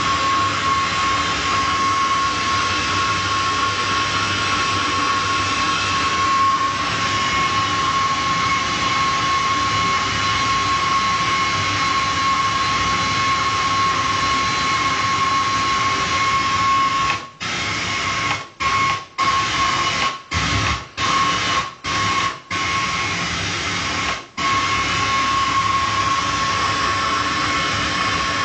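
An unidentified noise signal received on an FM radio frequency: a steady hiss like white noise with a constant high tone running through it. In the second half it cuts out in a run of about eight brief dropouts, then carries on unchanged.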